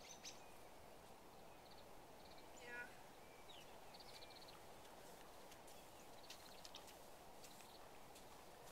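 Near silence outdoors, with a few faint, high, quick bird chirps scattered through.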